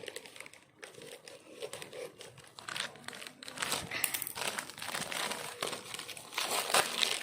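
Packaging crinkling and crackling as it is handled and pulled open by hand, busier and louder from about halfway through.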